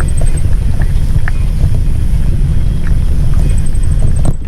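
Wind buffeting the microphone in a loud, steady low rumble, over the crunch and small ticks of bicycle tyres rolling on loose gravel.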